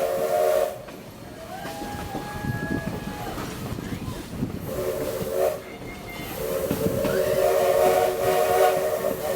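Steam locomotive's chime whistle blowing several tones at once, in separate blasts: one ending just under a second in, a short one about five seconds in, and a long one from about six seconds to the end. Under it runs the steady rumble of the rail car.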